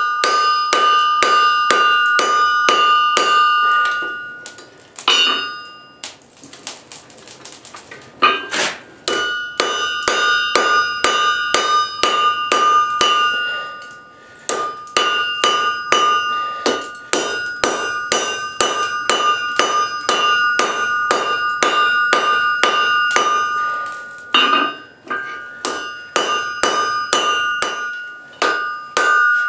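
Hand hammer blows on hot coil-spring steel over an anvil, about three a second, each with a clear ringing tone. The runs of blows break off a few times for a second or two.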